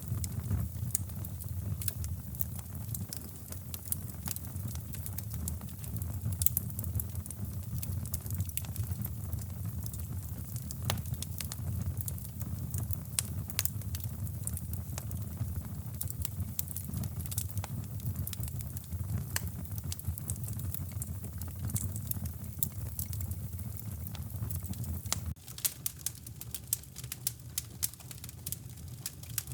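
Wood fire in a fireplace crackling, with frequent sharp irregular pops, over a low steady rumble that drops out about 25 seconds in.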